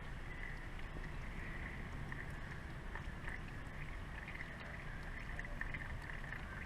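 Faint steady background noise with light, irregular ticks: the last of the used engine oil trickling and dripping from the motorcycle's drain hole into a catch pan.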